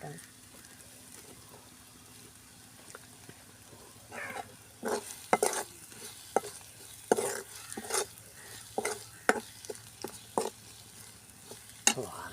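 Spatula stirring and scraping an egg, onion and spice mixture frying in a pan, over a faint sizzle. For the first few seconds only the low sizzle is heard; from about four seconds in come irregular scraping strokes against the pan.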